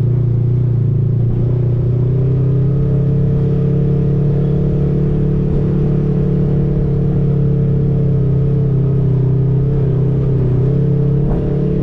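Off-road side-by-side's engine running steadily while driving, its pitch shifting slightly a couple of times as the throttle changes.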